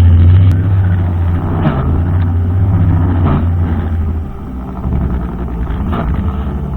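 Brushcutter engine running steadily under load. It eases off slightly about four seconds in, with a few short scratchy sounds over it.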